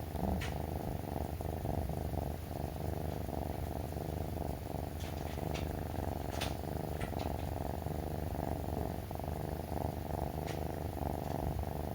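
A brown tabby kitten purring close to the microphone, a steady rumble, with a few faint clicks or rustles over it.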